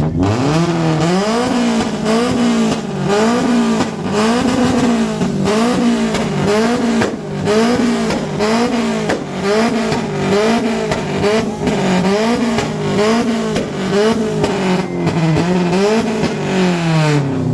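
Car engine revved over and over through a loud exhaust in an exhaust competition, its pitch climbing and dropping a little more than once a second.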